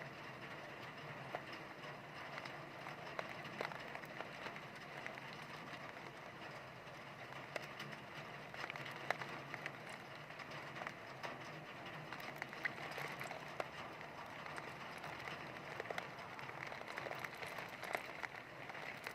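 Heavy rain falling steadily, with many scattered sharp drop impacts ticking through the constant hiss.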